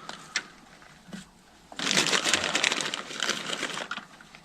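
Shredded cabbage being piled onto a fish taco: a few light clicks, then a crunchy rustling of about two seconds starting near two seconds in.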